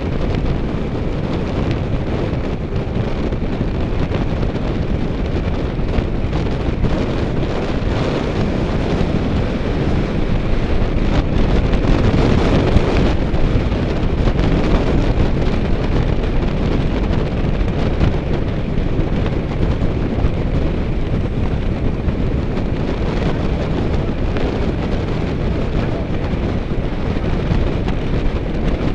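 Wind rushing over the microphone of a camera on a moving bicycle: a steady, heavy low buffeting that swells a little about halfway through.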